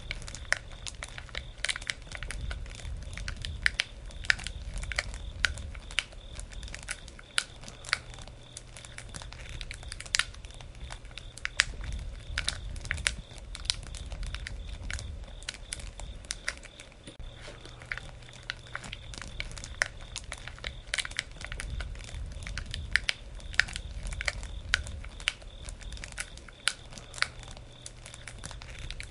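Wood campfire crackling: irregular sharp pops and snaps, several a second, over a low rumble of flames that swells and fades every few seconds.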